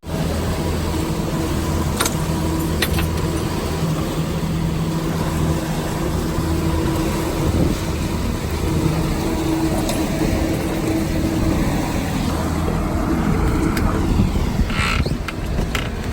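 250-horsepower outboard motor running steadily over a constant rushing hiss, with a few brief knocks.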